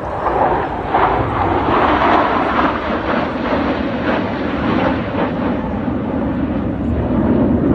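Fixed-wing aircraft passing overhead: a loud, steady rush of engine noise that swells about a second in and holds.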